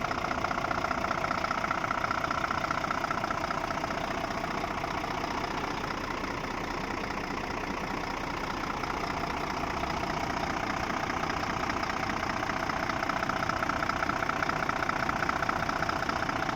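Scania truck's diesel engine idling steadily, its tone thinning a little midway and then returning.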